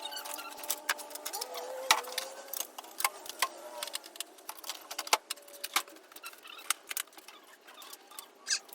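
Small hard objects being handled: irregular clicks, taps and rattles, with faint squeaky rubbing in the first few seconds.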